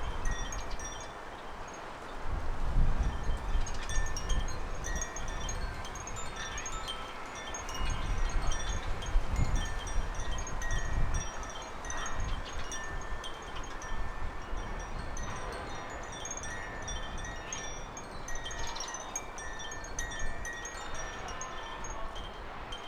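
Wind chime ringing in a breeze, with gusts of wind buffeting the microphone about two seconds in and again around eight to eleven seconds; short repeated high chirping notes from small garden birds run through it.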